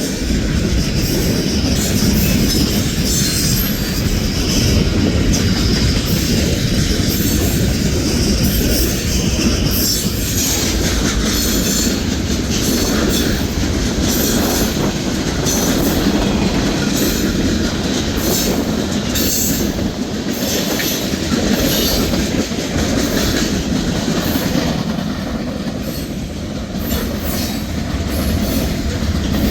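Freight train cars rolling steadily past, loud continuous wheel-on-rail noise with clatter from the cars.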